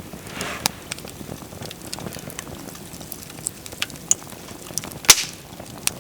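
Wood fire crackling with irregular sharp pops, one much louder pop about five seconds in.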